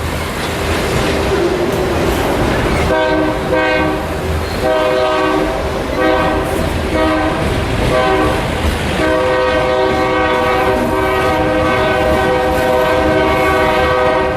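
Locomotive air horn sounding a chord of several notes in a rapid series of short blasts, then longer held blasts in the second half, over the rumble of a moving train.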